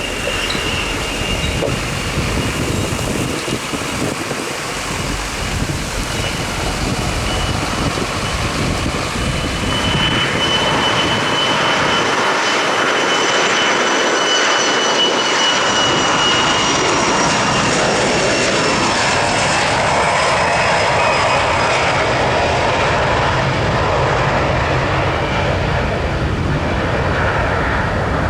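Aircraft engines running: a steady heavy rush that grows louder about a third of the way in, with a high whine that slowly falls in pitch.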